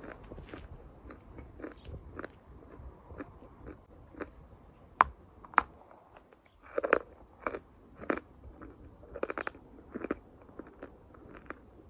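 Crunchy chalk being bitten and chewed close to the microphone: a run of sharp crunches, the two loudest about five seconds in, then denser crackly bursts of chewing around seven and nine seconds in.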